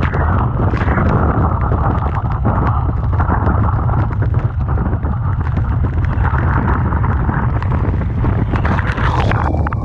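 Typhoon-strength wind buffeting the microphone in a constant heavy rumble, over the noise of rough, crashing surf and storm surge, with many sharp crackles throughout. The sound drops out abruptly for a moment near the end.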